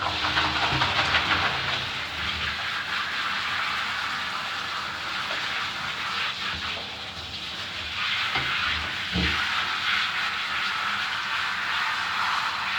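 Bath water running steadily as a dog is wetted down, with two soft knocks about eight and nine seconds in.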